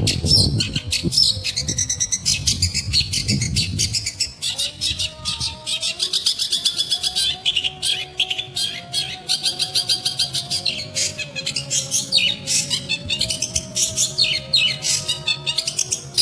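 Long-tailed shrike singing a fast, scratchy chattering song of rapid repeated notes, continuous throughout.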